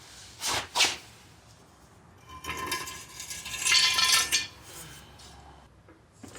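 Metal parts and tools clinking and clattering as they are handled and set down. There are two short knocks in the first second, then a longer run of ringing metallic clatter a little over halfway through.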